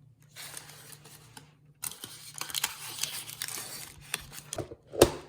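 Rustling and crinkling handling noise with scattered small clicks, ending in one loud thump about five seconds in.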